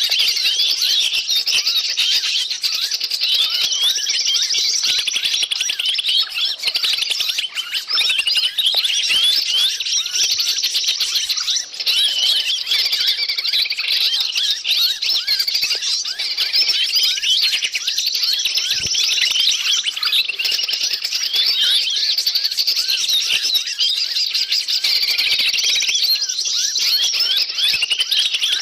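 A dense chorus of many small birds chirping and calling at once, high-pitched chirps and trills overlapping without a break. It is a noisy bird-lure recording, played to attract wild forest birds.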